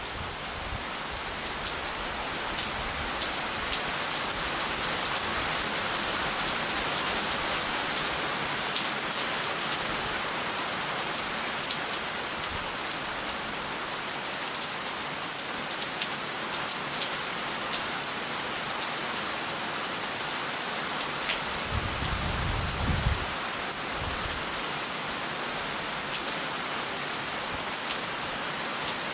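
Steady rain falling, with many individual drops ticking on surfaces. A brief low rumble comes about three-quarters of the way through.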